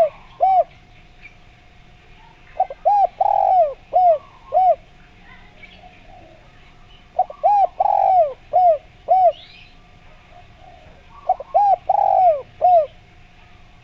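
Spotted dove (derkuku) cooing: phrases of about five short arched coos with one longer drawn-out coo among them, a new phrase every four to five seconds. Fainter chirps of small birds sound in the background.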